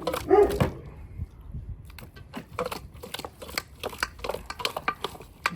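Irregular light clicks and rustles of hands at work while raw chicken is being seasoned, with a short voiced sound right at the start.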